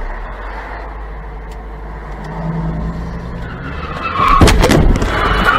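Steady road noise of a moving car, then about four seconds in a sudden loud burst of tyre skidding with sharp impacts: a car crash.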